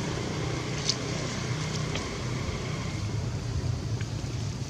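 Steady low hum of an engine running, with two short faint clicks about one and two seconds in.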